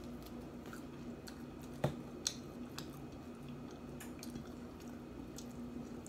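Chewing and wet mouth sounds of someone eating baked chicken with their fingers, with many small scattered clicks. Two sharper knocks come about two seconds in, over a steady low hum.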